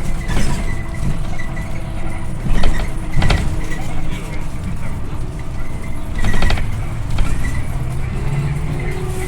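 Interior of a Scania OmniLink I bus on the move: a steady low rumble from the engine and road, with the body and fittings rattling and knocking every so often. From about six seconds in, a whine rises slowly in pitch as the bus picks up speed.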